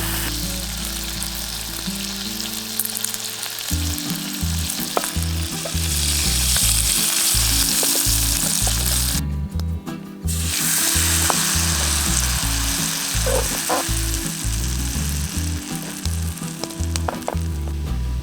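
Kaiserschmarrn pancake batter frying in a pan, a steady sizzle with small pops and crackles. The sizzle drops out for about a second around nine seconds in.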